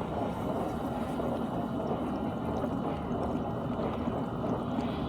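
GE dishwasher running its wash cycle: a steady rush of water inside the tub.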